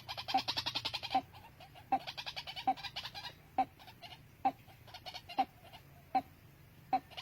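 Birds calling: short calls repeated every half second or so, with bursts of rapid high-pitched chattering about a second long.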